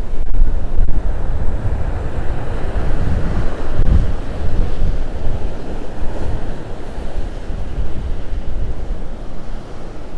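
Strong gusty wind buffeting the microphone over the rush of heavy storm surf breaking on the beach. The wind rumble swells loudest about four seconds in.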